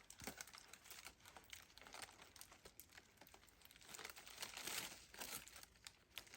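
Faint rustling and crackling of dry leaves and twigs as they are handled, a run of small crackles that gets a little louder near the end.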